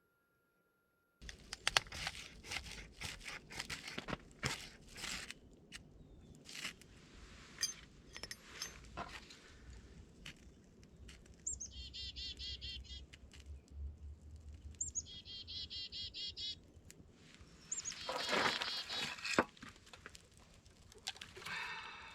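Small birds singing, with two rapid trills of repeated chirps in the middle, over scattered sharp clicks and crackles. It starts abruptly after about a second of silence.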